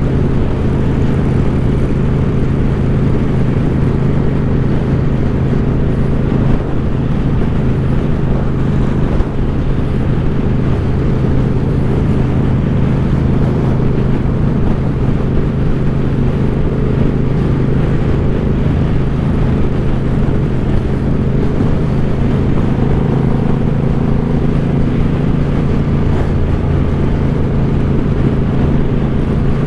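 2014 Suzuki Boulevard C50's V-twin engine running through its aftermarket Cobra exhaust at a steady riding speed, with an even tone that holds throughout.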